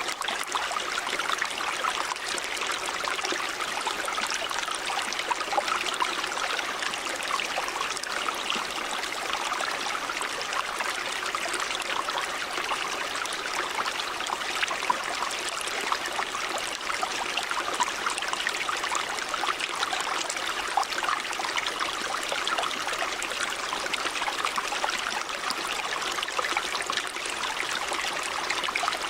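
Stream water running and splashing over rocks: a steady, bright burble with small splashes throughout.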